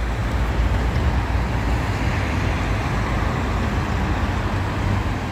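City street traffic noise: a steady low rumble of passing road traffic.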